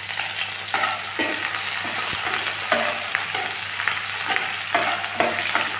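Chopped onions, curry leaves and green chillies sizzling in hot oil in a kadai, with a steady hiss. Short scrapes and knocks of stirring come irregularly, about twice a second.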